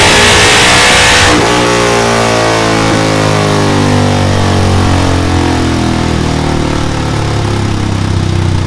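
KTM 690 Duke single-cylinder engine through a Delkevic X-Oval titanium silencer, at full throttle on a dyno for about the first second; then the throttle shuts and the engine winds down, its revs falling slowly and settling toward a low steady speed near the end.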